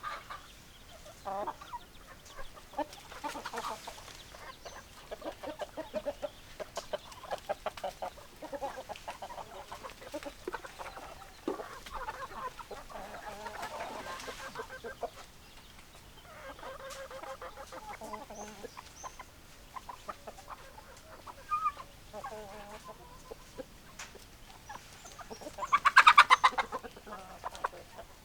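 Domestic chickens clucking, a run of short repeated calls throughout, with one much louder, longer call near the end.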